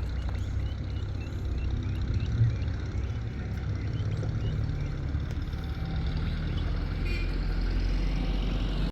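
Steady low rumble of a vehicle engine, with a brief louder bump about two and a half seconds in and faint short high chirps over it during the first few seconds.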